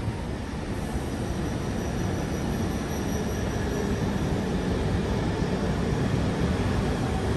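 E2 series Shinkansen train pulling into the platform, its cars rolling past with a steady rumble that grows slightly louder.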